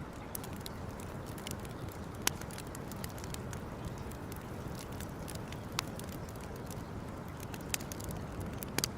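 Wood campfire crackling, with sharp pops every second or two over a steady low rush.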